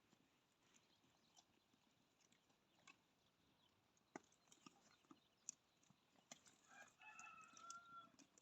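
A rooster crowing faintly in the distance near the end, one call lasting a little over a second, over scattered faint clicks and ticks.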